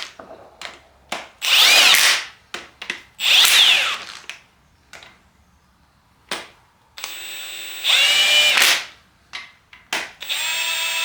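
Cordless power tool running bolts into an engine in short trigger pulls, about four bursts, the motor's pitch rising and falling with each pull, with a few clicks between them.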